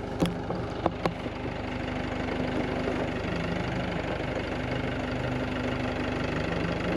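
Tractor engine running steadily under load, with three short sharp knocks in about the first second.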